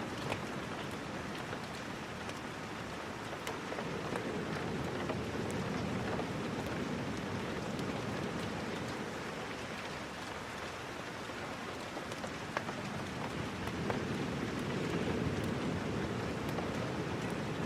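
Steady rain falling, a dense even hiss with scattered light ticks of drops, its lower wash swelling and easing slowly.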